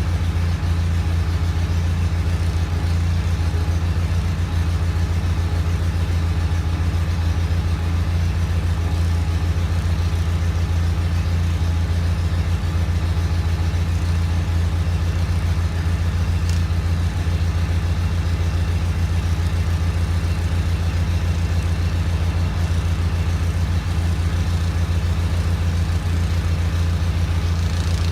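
John Deere 318 garden tractor's Onan two-cylinder engine running steadily at constant speed while powering a Model 49 snowblower through snow.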